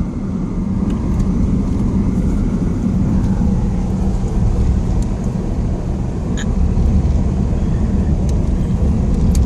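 Steady rumble of a car driving along a road, heard from inside the cabin.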